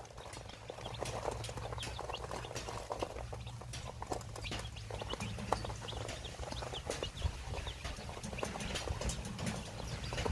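Chickens making many short, sharp clicks and chirps over a steady low hum.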